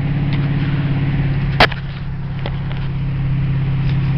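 Car engine running steadily under way, heard from inside the cabin as a low drone. There is one sharp click about a second and a half in, after which the sound dips a little and then builds again.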